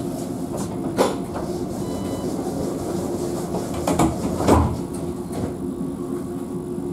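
Alstom Citadis tram running between stops, heard from inside the car: a steady rumbling hum with a constant tone. A few sharp knocks come through, one about a second in and two more around the middle.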